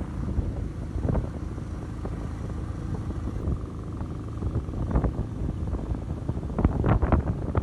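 Motorcycle engine running while riding, with wind buffeting the microphone in irregular low thumps, heaviest near the end.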